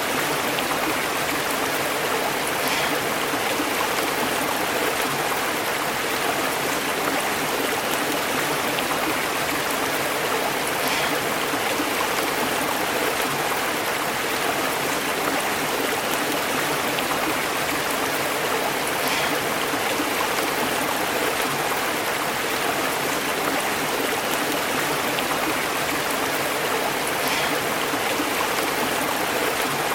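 A stream burbling and bubbling over rocks: a steady, even rush of running water.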